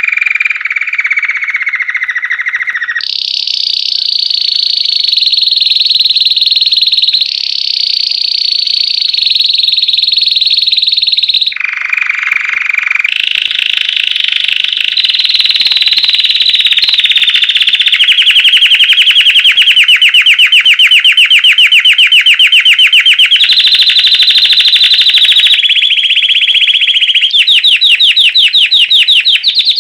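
Belgian canary singing loudly without a break: a string of phrases, each held for a few seconds before jumping to a new pitch, with fast rattling trills in the second half.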